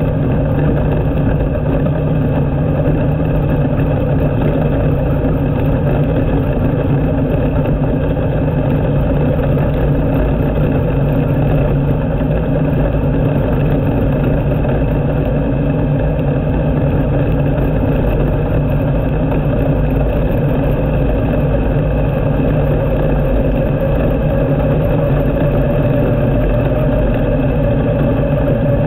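Sprint car engine running steadily at low speed, heard from the cockpit, with the pitch edging up slightly near the end.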